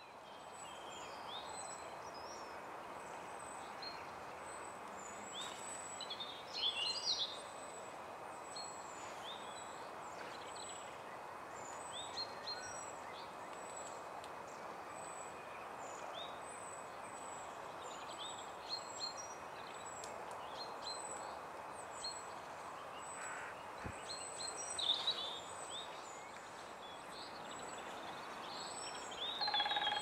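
Several small birds singing and calling: a scattering of short, high chirps and brief warbled phrases throughout, with a few louder bursts of song, over a steady background hiss.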